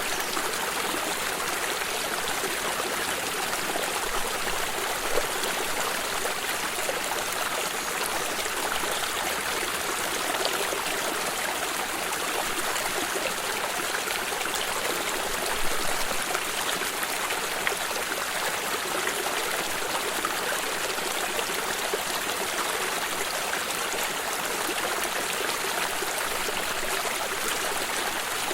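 Small stream of water running steadily, a continuous rushing and trickling over stones with small splashes.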